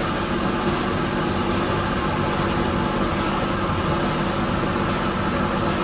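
Vehicle engine running steadily under a constant hiss.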